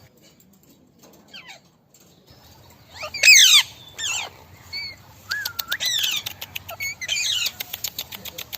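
Parrots calling: after a quiet start, loud screeching calls that sweep down in pitch begin about three seconds in, with further calls following. From about five and a half seconds a rapid run of sharp clicks sounds alongside the calls.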